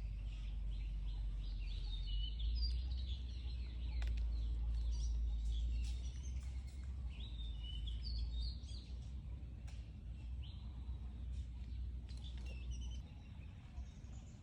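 Birds chirping, many short high calls throughout, over a steady low rumble that drops off near the end.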